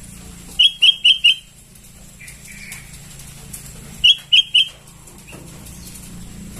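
Sooty-headed bulbul chick calling: a quick run of four short high calls, a couple of softer notes, then another run of three short calls and a single note near the end.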